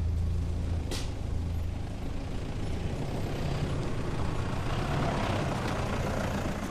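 Four-wheel-drive vehicle driving a dirt track: a low engine drone that fades a second or two in, a sharp knock about a second in, then a rushing noise that swells in the middle.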